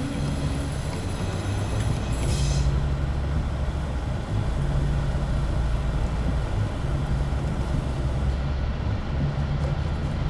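Car driving along, with a steady low rumble of engine and tyres on the road.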